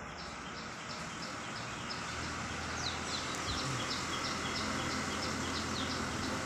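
A bird chirping over and over, about three short high chirps a second, a few of them sliding quickly downward around the middle, over a steady hiss of outdoor background noise.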